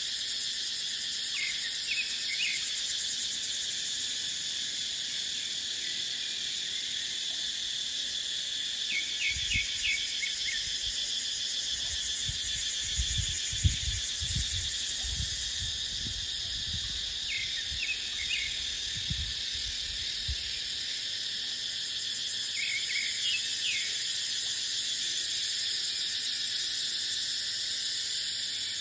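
Steady, high-pitched chorus of cicadas in dry forest, with short clusters of chirps recurring every several seconds. From about a third of the way in to about two-thirds, wind gusts rumble on the microphone.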